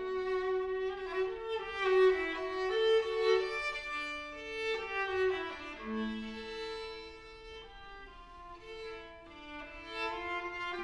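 Viola playing a slow melody of long bowed notes, with other pitched notes sounding alongside. The music softens for a few seconds past the middle, then swells again.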